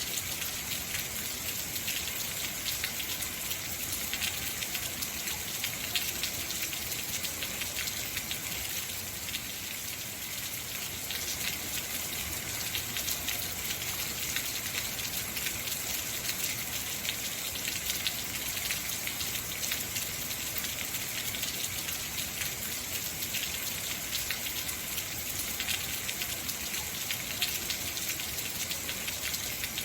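Heavy rain falling steadily, a dense hiss of many small drop impacts.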